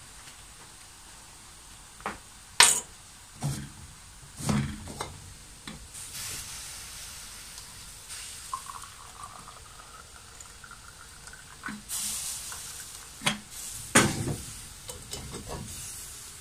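Dishes or pots clinking and knocking several times, separate sharp strikes spread out over a faint steady hiss. A faint, slowly rising whistle sounds in the middle.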